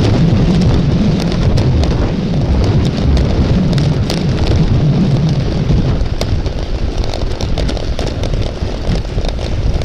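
Heavy wind buffeting on the microphone, a steady deep rumble, with scattered sharp ticks and rattles.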